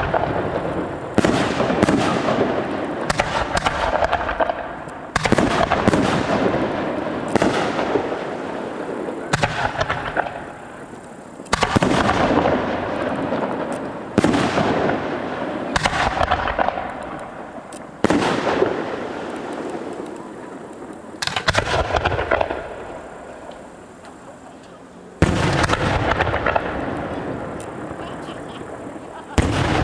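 Aerial firework shells bursting in quick succession, a loud bang every one to three seconds, each followed by crackling that fades over a second or two.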